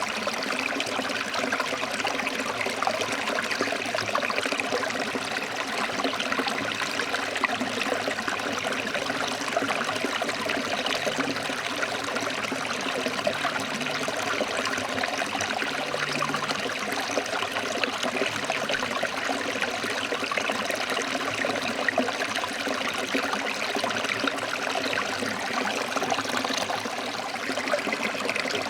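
Forest stream flowing over rocks: a steady rush and babble of water.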